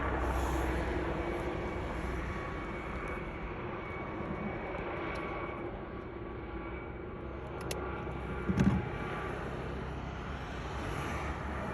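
Aircraft overhead, a steady engine and rotor noise that slowly fades. There is a short low knock about eight and a half seconds in.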